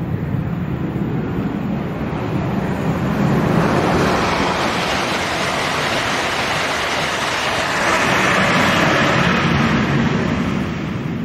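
LNER Azuma high-speed train passing at speed: a steady rush of wheels on rail and air that swells twice, about four and nine seconds in, then starts to fade.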